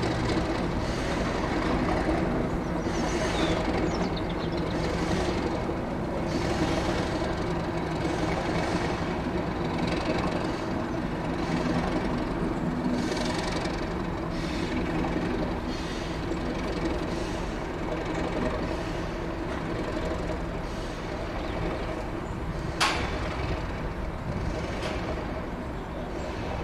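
A train running on a heritage railway line: a steady rumble with a soft swishing beat every second or two, and one sharp clank about 23 seconds in.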